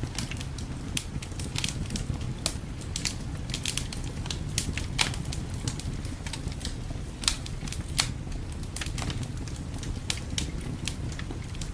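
Wood fire crackling in a fireplace: irregular sharp pops and snaps, several a second and uneven in strength, over a steady low rumble.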